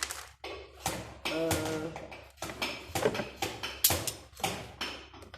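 A run of sharp metallic clicks and knocks as the gear selector of a stripped-down Kawasaki 400cc motorbike engine is worked by hand to put the gearbox into gear. A short voice is heard about a second and a half in.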